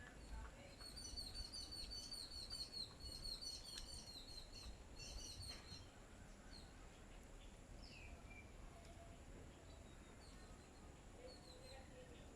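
Faint bird chirping: a fast run of high, short chirps, about four a second, for the first six seconds or so, then scattered single calls.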